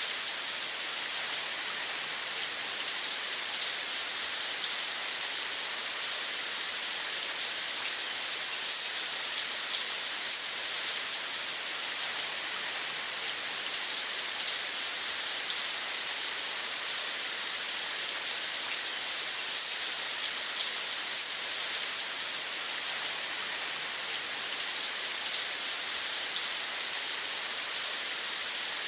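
Steady rain falling: a dense, even patter of drops over a hiss.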